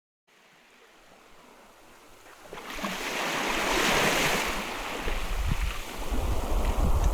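Sea waves washing onto a beach, fading in from silence, then swelling about three seconds in, easing and building again near the end. A low rumble of wind on the microphone joins about halfway through.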